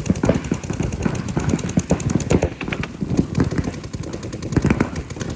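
Paintball markers firing in rapid strings of shots, a dense run of sharp pops.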